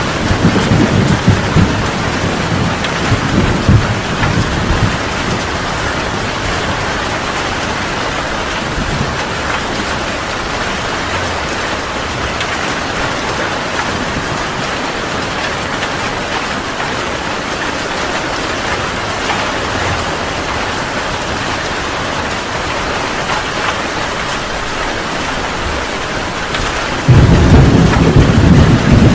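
Heavy rain pouring steadily, with thunder: a low rumble dying away over the first few seconds, then thunder breaking in suddenly and loudly near the end.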